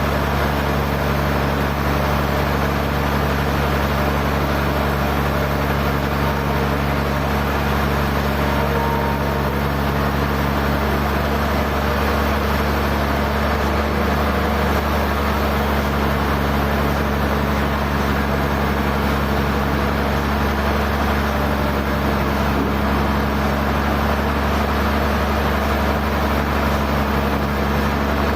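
Sawmill machinery running steadily: an engine's even, unchanging drone with a constant hum.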